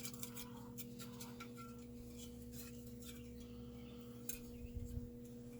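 Quiet workshop room tone: a steady hum with a few faint, light clicks and taps of small metal parts being handled.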